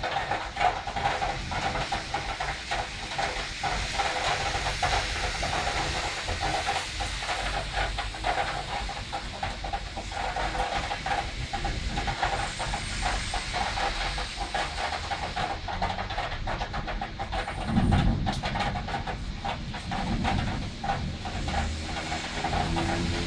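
Heavy thunderstorm rain hissing steadily, with many small taps of drops mixed in. A brief low thump comes about 18 seconds in.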